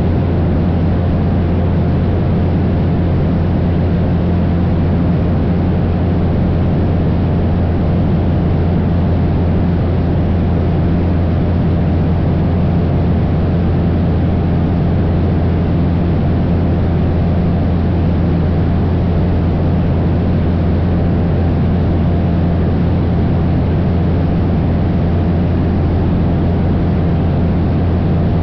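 Cessna 172 light plane's piston engine and propeller droning steadily in flight, a constant low hum with no change in pitch.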